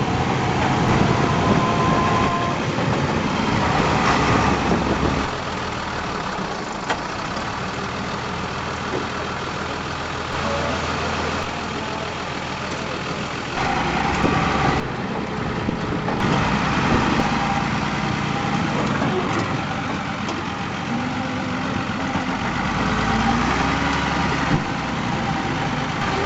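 Truck engine running, quieter for several seconds about a fifth of the way in, then louder again.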